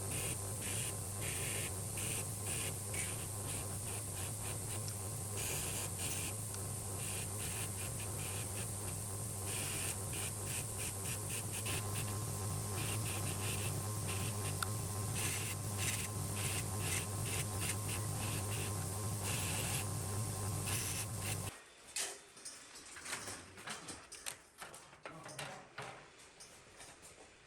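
A power tool running with a steady motor hum under a loud hiss and irregular scratchy strokes; it cuts off abruptly about three quarters of the way through, leaving faint clicks and handling noise.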